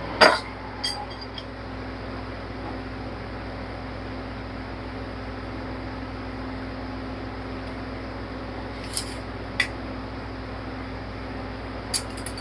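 A few sharp metallic clinks of hand tools and parts being handled in a car's engine bay, the loudest just after the start, then two more about nine seconds in and one near the end. Under them runs a steady low background hum.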